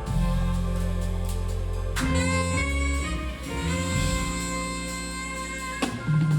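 Jazz band playing, with long held bass notes under a sustained melody line. The chord changes about two seconds in and again near the end.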